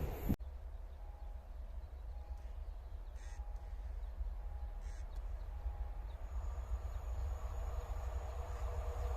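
A crow cawing twice over a steady low rumble, with faint short beeps repeating about once a second.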